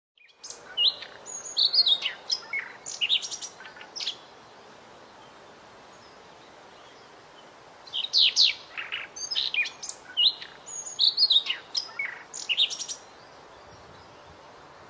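White-rumped shama (murai batu) singing: two rich phrases of varied whistles and quick trills, the first at the start and the second beginning about eight seconds in, with a few seconds' pause between them over a steady faint hiss.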